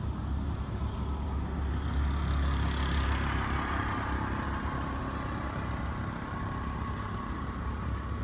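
Motor vehicle engine running steadily, a low rumble with a faint whine over it.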